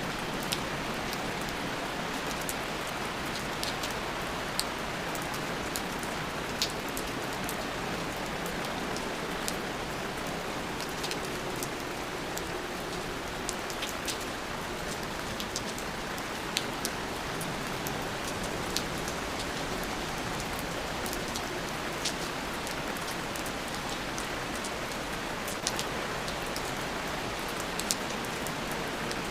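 Steady rain, an even hiss with scattered sharp drop ticks landing close by.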